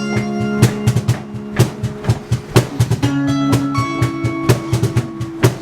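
Live band playing an instrumental passage with no vocals: a steady drum-kit beat with bass and snare hits under held guitar chords that change about three seconds in.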